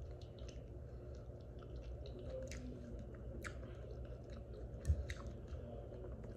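A person chewing a mouthful of soft food, with scattered small wet clicks and smacks of the mouth. There is one soft low thump about five seconds in.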